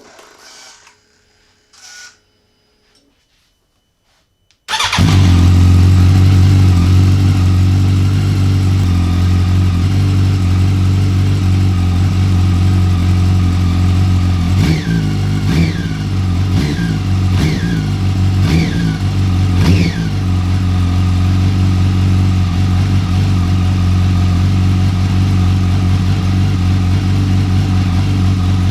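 Yamaha R1 4C8 inline-four engine with Yoshimura mufflers coming in abruptly about five seconds in and idling steadily, with a quick series of throttle blips about halfway through before settling back to idle. The idle is smooth and even: the engine runs well after its crankcase was welded.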